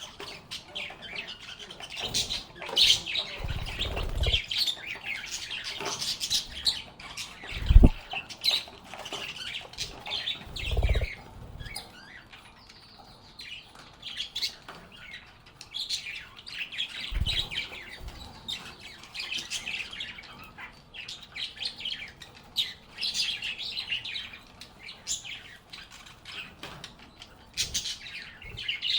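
A flock of lovebirds chirping and squawking in rapid, overlapping high calls. A few low thumps break in, the sharpest about eight seconds in.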